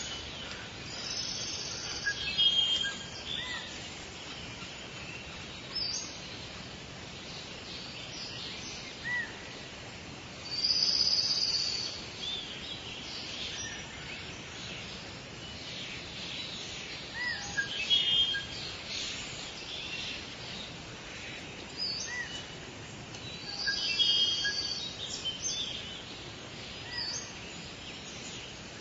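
Forest birds calling and singing: short, high chirps and trilled phrases recurring every few seconds, with louder bursts of song a little after ten seconds in and again near twenty-four seconds, over a steady background hiss.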